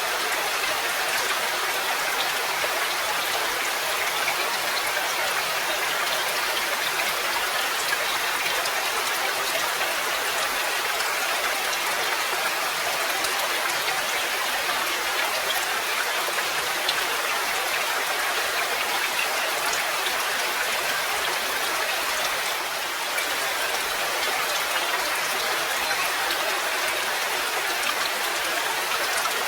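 Steady rain, an even hiss with scattered drop taps, easing briefly about twenty-three seconds in.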